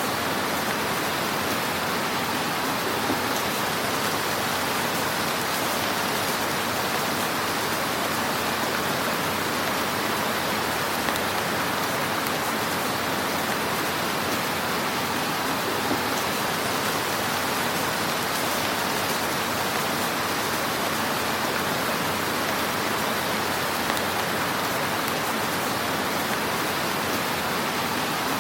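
Fire crackling in a fireplace: a steady, dense hiss of small crackles with a few slightly louder pops.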